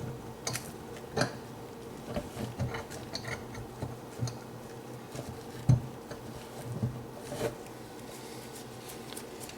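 Scattered small clicks and scrapes of debris being picked out of a garbage disposal's grinding chamber by hand, with one louder knock about six seconds in, over a faint steady hum.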